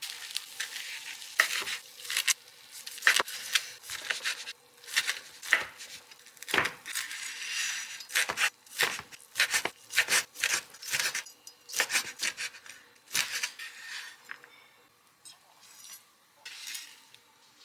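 Someone eating duck noodle soup close to the microphone: utensils clicking and scraping against the bowl, mixed with short noisy eating bursts, irregular and dense. The sounds thin out over the last few seconds.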